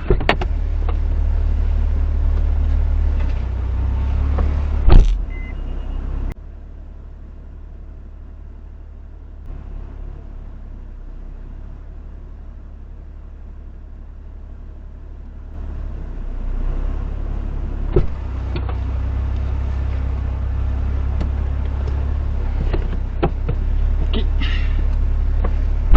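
Honda S660's small three-cylinder engine idling with a steady low hum. A loud thump comes about five seconds in. The engine sound drops away abruptly about a second later and returns around sixteen seconds in.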